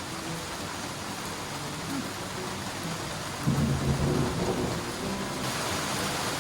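Heavy rain falling steadily, with a low roll of thunder about three and a half seconds in. Near the end the rain's hiss grows stronger.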